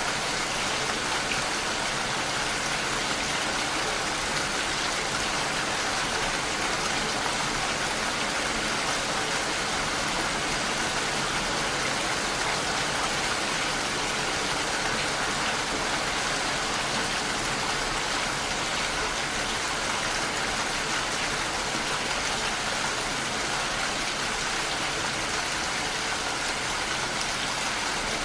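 Steady rain pattering against a window pane, an even hiss with no separate drops standing out.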